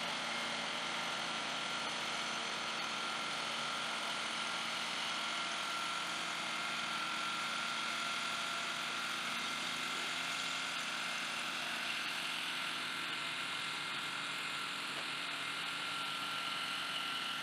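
A vehicle engine running steadily at idle: an even hum with a thin, steady high whine over it.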